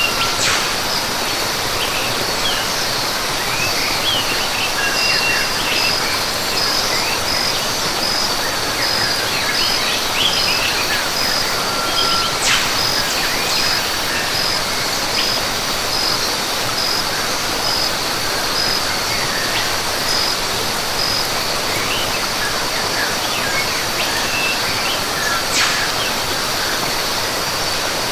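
Rainforest ambience: a steady rush of falling water under scattered bird chirps and calls, with a high, evenly pulsed insect call repeating through most of it.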